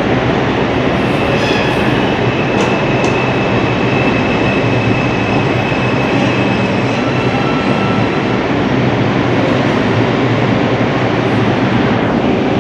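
Train running on the rails, a steady loud rumble and rush of wheels on track, with a faint thin high squeal through the first half.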